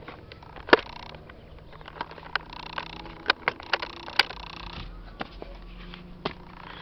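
A series of irregular light clicks and knocks, the sound of small parts being handled.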